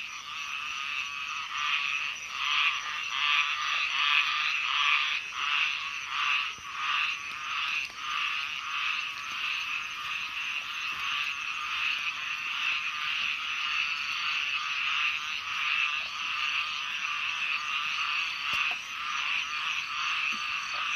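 A chorus of many small frogs calling together from a pond, dense overlapping pulsed croaks running on steadily, rising and falling in waves.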